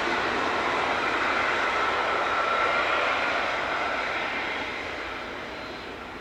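Embraer Phenom 300 business jet's twin turbofan engines at takeoff power: a steady jet noise with a high whine, growing fainter in the second half as the jet departs.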